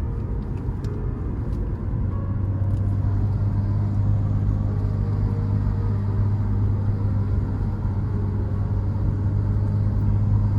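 Car engine running steadily, a low even drone, with a few light ticks in the first three seconds and a slight rise in level about two seconds in.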